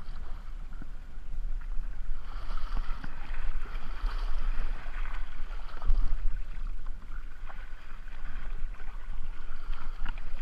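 River water splashing and rushing around a kayak, with a steady low rumble on the microphone.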